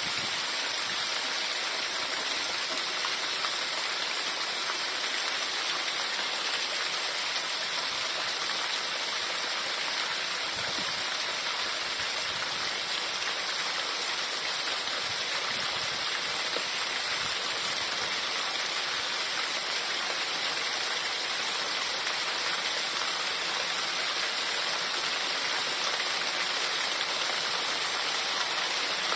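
Heavy rain falling steadily, an even hiss of countless drops with no let-up.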